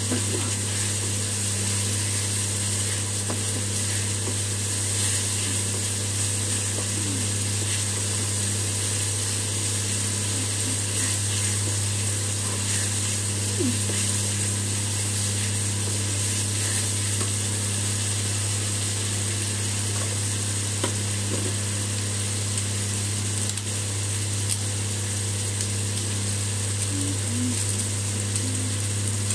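Tomato and spice masala sizzling as it fries in oil in a kadai, stirred with a wooden spatula, with a few faint scrapes and taps of the spatula. A steady low hum runs underneath.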